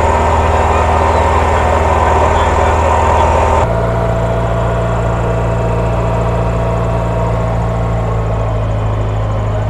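Motorboat engine running steadily close by, its note shifting abruptly about three and a half seconds in.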